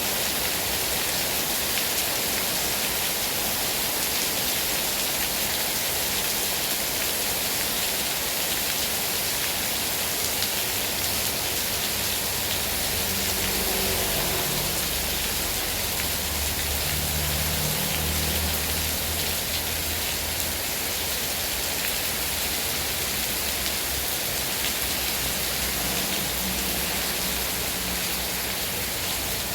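Heavy rain falling steadily, an even dense hiss of drops, with some low rumbling about halfway through.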